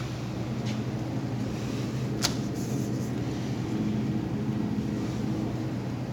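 Steady low electrical hum of refrigerated display cabinets running, with one sharp click about two seconds in.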